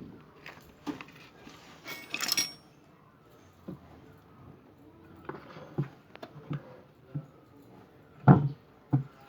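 Scattered clinks and knocks of hard metal parts being handled, irregular and separate, with the loudest knock about eight seconds in.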